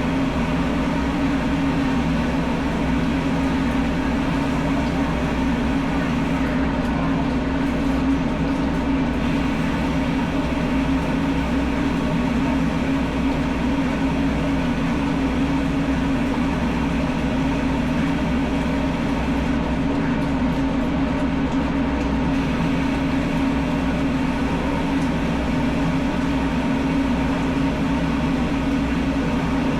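Steady machine hum, an even drone with a low pitched tone that holds unchanged throughout.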